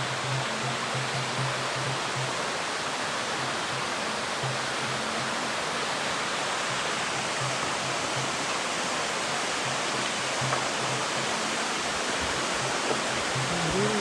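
Steady rushing of a fast-flowing waterfall, with faint background music underneath.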